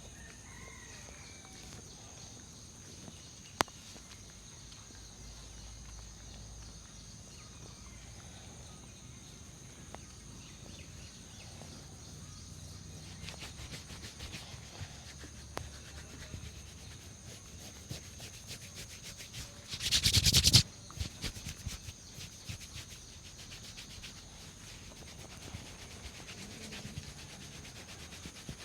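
Fingers rubbing and scrubbing through hair and scalp in a head massage: soft crackling scratches that grow busier from about halfway, with one loud, brief rush of rubbing about two-thirds in. A faint steady high-pitched whine runs underneath.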